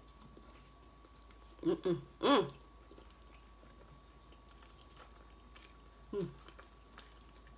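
A person chewing a mouthful of chicken burrito, with faint wet mouth clicks. Three short hums come about two seconds in, and one more near the end.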